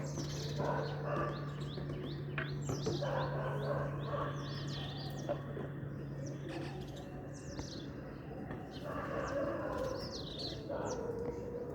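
Many small birds chirping in quick, overlapping high calls, some sliding in pitch. A low steady hum runs under them and stops about seven seconds in.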